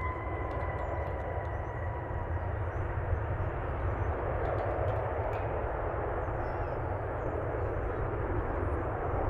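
Jet airliner engines running, a steady roar that swells slightly about halfway through.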